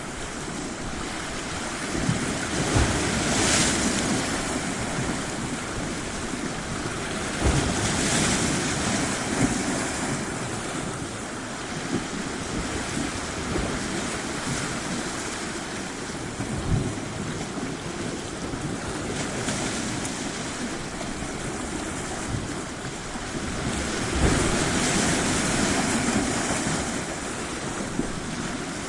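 Surf washing steadily on a shore, with larger waves breaking and surging a couple of seconds in, about a quarter of the way through, and again near the end.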